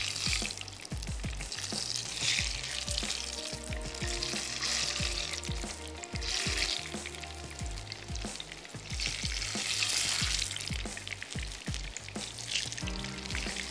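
Chicken malai kababs shallow-frying in oil in a non-stick frying pan, the oil sizzling with a hiss that swells and eases every second or two.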